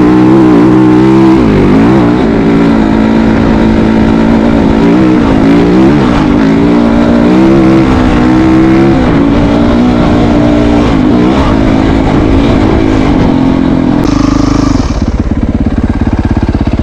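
Motorcycle engine running close by, revving up and down over and over; about fourteen seconds in it settles to a steady, even beat.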